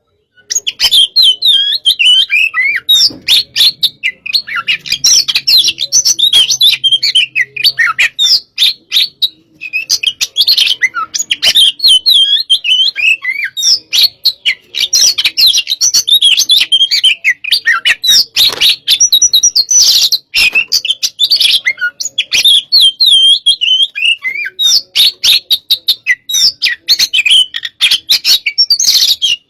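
Oriental magpie-robin (kacer) singing a rapid, varied song of whistled notes and sharp clicks. It runs almost without pause, with brief gaps around a third of the way in and two-thirds of the way in.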